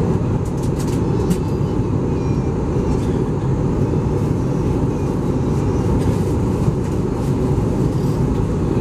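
Steady cabin noise of an Airbus A320 during its descent: the low rush of air over the fuselage and the engines' drone heard from a passenger seat, with a few faint clicks near the start.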